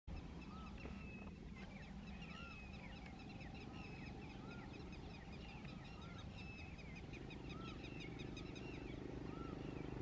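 Faint outdoor chorus of small birds chirping, with one short, arched call repeating about every one and a half to two seconds. A low drone swells in from about seven seconds in.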